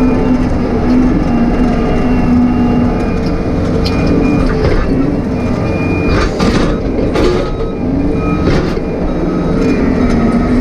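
John Deere 135 excavator's diesel engine running under load, its pitch shifting a little as the hydraulics work, with several sharp cracks and snaps partway through.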